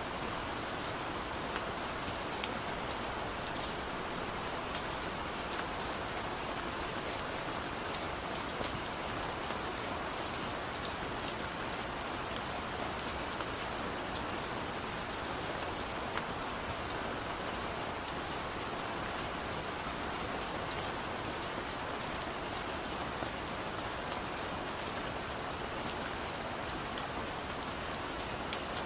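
Steady rain falling, with fine drop patter on a surface and an even hiss throughout.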